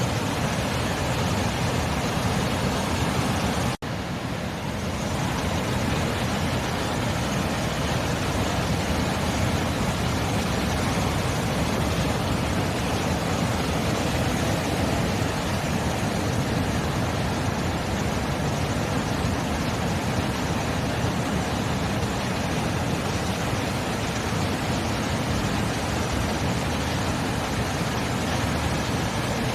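Sea surf, a steady continuous rushing wash of waves with no distinct breaks, and a momentary drop-out about four seconds in.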